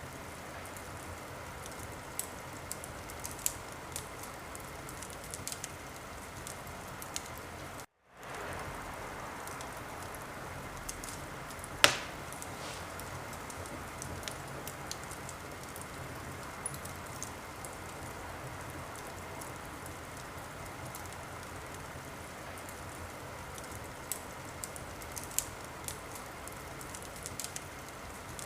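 Wood fire crackling in a fireplace: a steady hiss with scattered small pops and one sharp, loud pop about twelve seconds in. The sound cuts out for a split second about eight seconds in.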